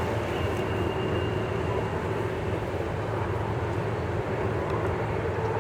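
Distant Canadian Pacific freight train passing, a steady low rumble with a humming drone.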